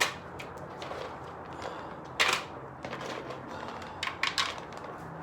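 Pet-food bowls being handled and set down: a sharp knock at the start, a brief clatter about two seconds in, and a few quick clicks near the end.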